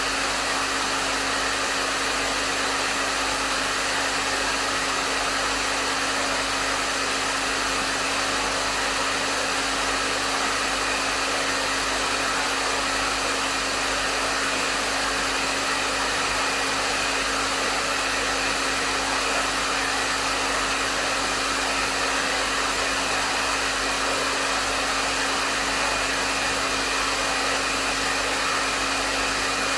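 Hair dryer blowing steadily on a medium setting: an even rush of air with a constant motor hum underneath, unchanging throughout.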